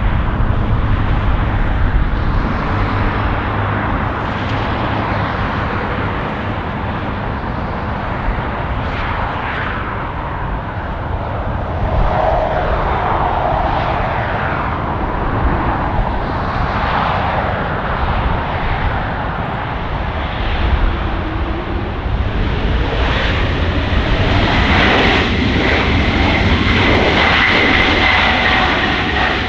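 Jet airliner engines close by, a steady loud rushing noise, with a turbine whine rising in pitch through the second half.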